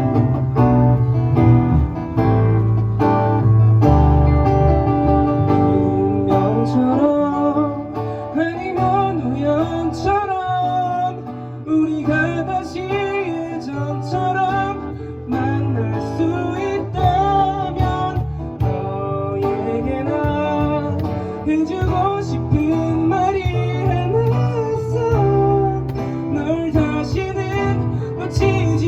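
A live band playing a ballad: guitar, bass, keyboard and cajon keep a steady accompaniment under the chords. From about eight seconds in, a gliding melody line rises and falls over it.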